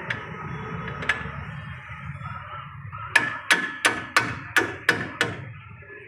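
A hammer striking repeatedly during suspension arm bush work: two lighter knocks, then about seven sharp blows at about three a second.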